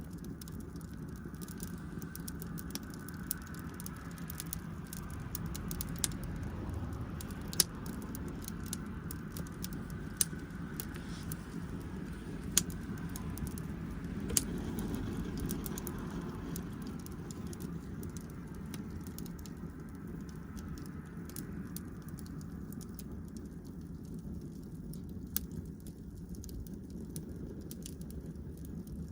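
Wood fire crackling, with sharp pops every couple of seconds over a steady low rumble.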